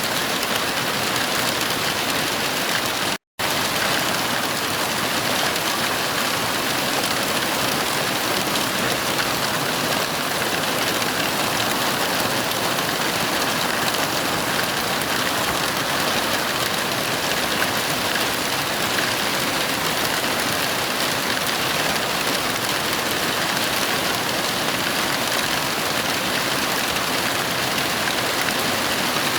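Heavy rain falling in a steady, even hiss, with no thunder. The sound cuts out completely for a fraction of a second about three seconds in, then resumes unchanged.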